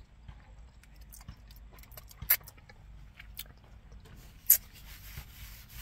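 Quiet eating noises: scattered small wet clicks of chewing and mouth sounds over a low hum, with two sharper snaps, one about two seconds in and one about four and a half seconds in.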